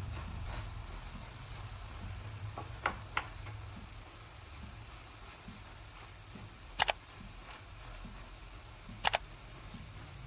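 Three pairs of short, sharp clicks a few seconds apart, typical of a utensil tapping against a pan or plate, over a low steady hum.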